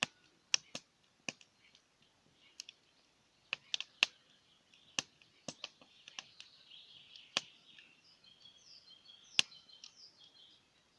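Wood campfire crackling: irregular sharp pops and snaps of burning logs, with faint bird chirps behind.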